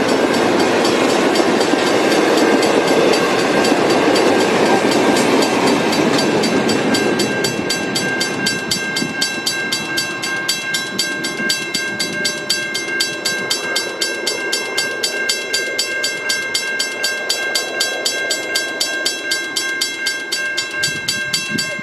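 A train hauled by diesel locomotives passes, its rumble loud for the first several seconds and then fading. A Western Cullen Hayes mechanical level-crossing bell keeps ringing with rapid, even strokes.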